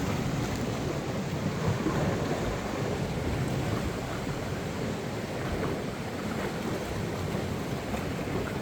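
Wind buffeting the microphone over the steady wash of sea surf, a continuous low rushing noise with no distinct events.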